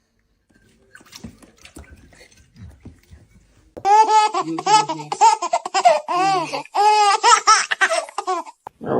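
Faint rustling and clicks, then, from a little under four seconds in, a loud burst of high-pitched laughter: a run of rising-and-falling hoots lasting about five seconds.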